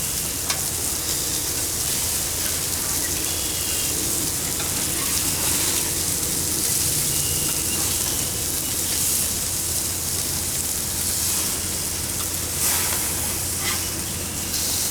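Slider patties sizzling steadily on a hot Weber grill, with a couple of light clicks.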